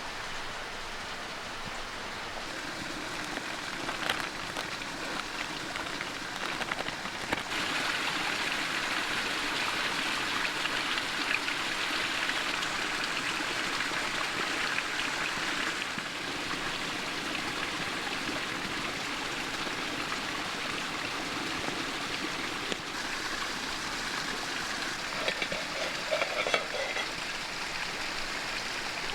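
Steady rushing water noise that swells for several seconds about a quarter of the way in, with a few light knocks or clinks near the end.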